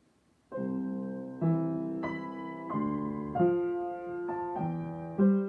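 Solo piano starting about half a second in, playing a series of held chords, with new chords struck roughly every half second to second.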